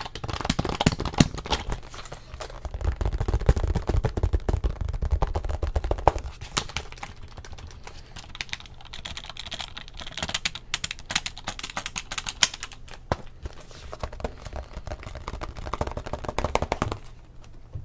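Rapid typing on an Acer computer keyboard: a dense, continuous clatter of key clicks, heaviest a few seconds in, that stops just before the end.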